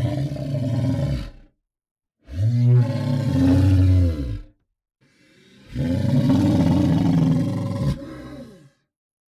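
Large monster bellow sound effects: the end of one bellow, then two more after short silences, the last and longest about three and a half seconds. Each is deep and falls in pitch as it dies away.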